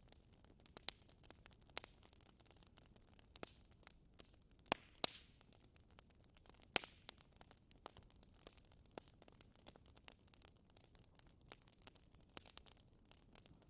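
Wood fire crackling in a fireplace: irregular sharp pops and snaps over a faint hiss, with a few louder pops about five seconds in and again near seven seconds.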